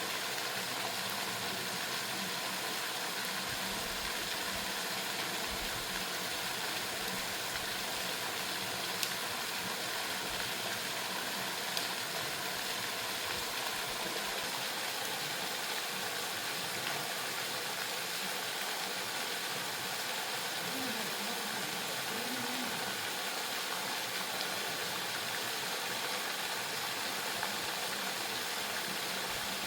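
Waterfall rushing: a steady, even noise of falling water, with a couple of faint clicks about a third of the way in.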